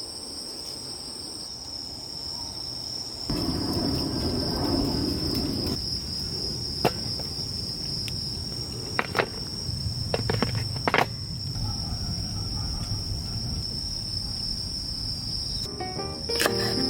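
Insects chirring in one steady, continuous high tone over a low rushing background, with a few sharp clicks in the middle.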